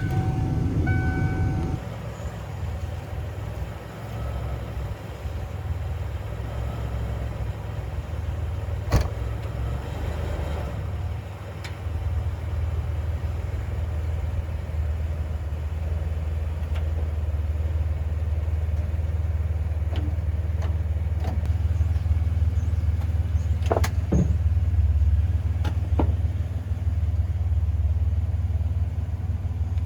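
Old pickup truck's engine idling steadily while it warms up just after starting, with a few sharp clicks about nine seconds in and twice more later on.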